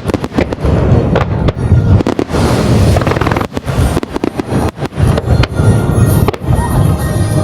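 Aerial firework shells bursting in a rapid starmine barrage, many booms and crackles close together and overlapping, with music playing along.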